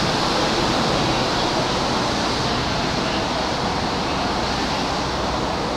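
Steady, even rumble and hiss of railway noise, easing slightly toward the end, with no distinct event.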